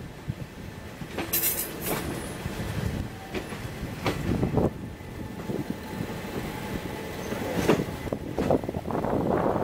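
Passenger train running, heard from an open carriage window: a steady rumble of wheels on track with irregular sharp clacks and knocks.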